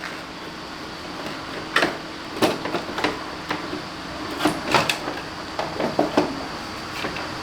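Scattered knocks and clinks of hand tools and parts being handled while a scooter is taken apart, about ten short strikes in two clusters, over a steady faint hum.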